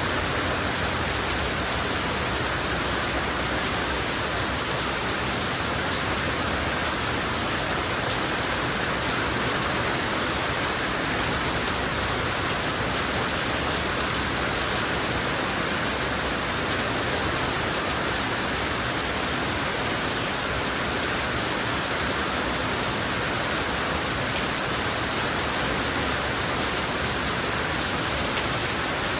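Heavy rain falling steadily: an even, unbroken hiss of downpour with no separate drops or other events.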